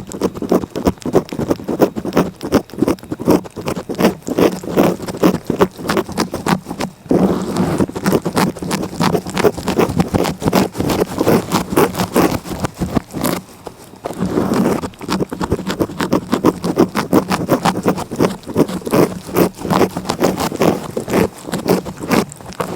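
A cat licking right at the microphone: a fast, steady run of short licks, several a second, broken by two brief pauses.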